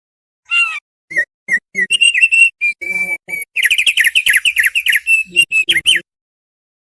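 Thick-billed heleia (opior paruh tebal) singing: a burst of chirped and whistled notes that speeds into a fast run of down-slurred notes, then stops abruptly.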